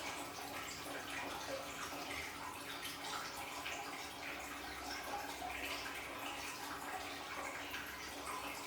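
Water from a small aquarium waterfall splashing and trickling steadily into the tank, with a faint steady hum underneath.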